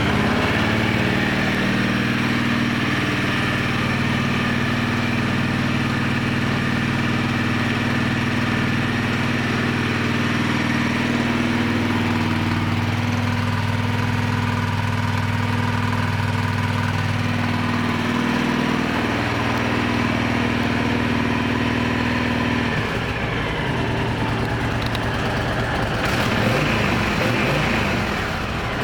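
2006 Honda VTX1300S V-twin engine idling steadily just after a cold start, its idle note shifting a few times partway through.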